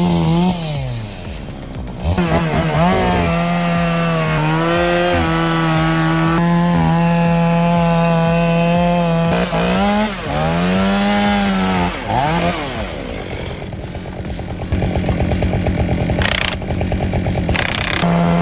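Two-stroke chainsaw running at high revs, with its engine note dropping and picking back up about a second in and again around ten seconds. In the last third it runs rougher and noisier, with a rapid pulsing, as if bogging in a cut.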